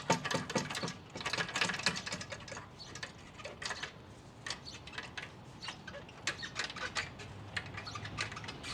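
Irregular metallic clicking and rattling of hand tools working on motorcycle exhaust hardware, with ratchet-like clicks, as the exhaust parts are worked loose.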